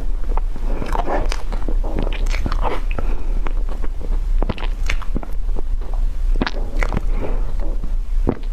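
Close-miked eating: irregular crunches, crackles and wet clicks of someone biting and chewing food, over a steady low hum.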